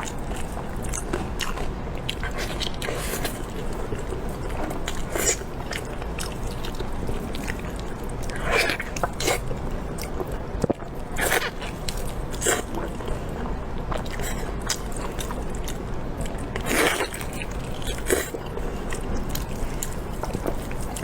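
A person eating close to the microphone: repeated biting and chewing, with several louder crunching bites scattered through.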